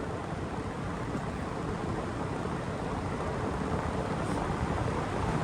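Wind rushing and buffeting on the microphone of a paramotor in flight, with no engine tone to be heard: the motor is out for a motor-out glide test. The rush slowly grows louder.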